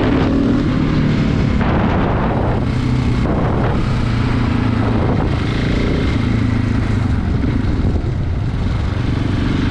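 KTM 690 motorcycle's single-cylinder engine running steadily while riding along, with wind noise rushing over the microphone.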